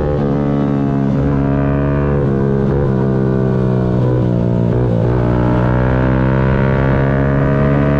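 Yamaha MT-125's single-cylinder four-stroke engine running under way at steady high revs, its note holding nearly level with a few brief dips in pitch.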